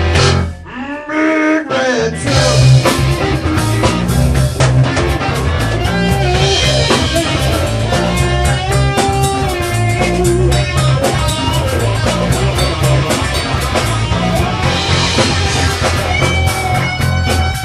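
Rock song with electric guitar, drums and singing; the band thins out briefly about half a second in, leaving a sliding guitar or vocal line, then comes back in full with a steady beat.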